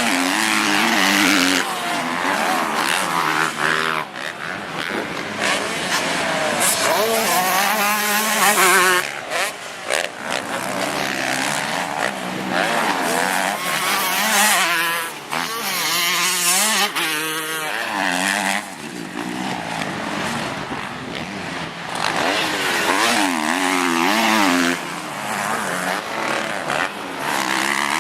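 Motocross bikes racing, several engines revving hard and easing off in turn, their pitch rising and falling with throttle and gear changes as they pass.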